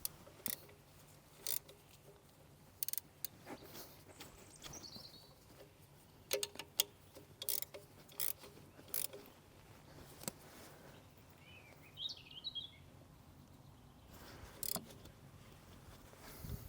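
Irregular metallic clicks and knocks of hand tools working on a digger, slackening off a fitting. A bird chirps briefly twice, about four seconds in and again around twelve seconds.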